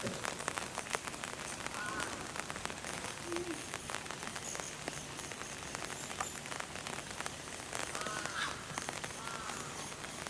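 Steady rain falling, with many separate drops ticking close by. A few faint, short, high calls sound in the background about two seconds in and again near the end.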